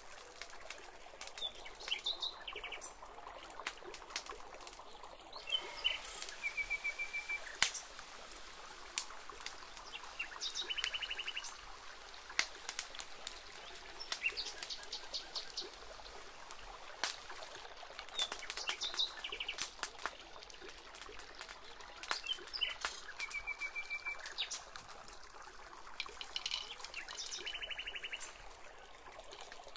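Birds chirping and trilling, short pulsed phrases repeating every few seconds over a steady hiss, with scattered sharp clicks.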